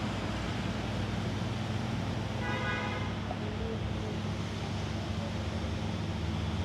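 Steady low hum of a car running on the road, with a short car horn toot about two and a half seconds in.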